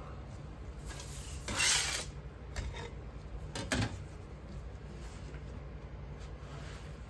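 Petrobond casting sand being scraped and worked into a mould flask: a loud gritty scrape about a second and a half in, then a few sharp knocks, over a steady low hum.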